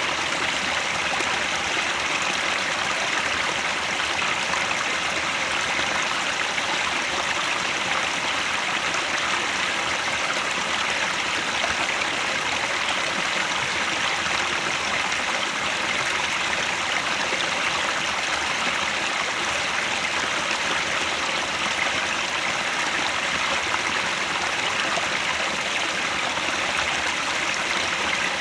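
Mountain stream near its source, water running steadily over rocks with an even rushing babble.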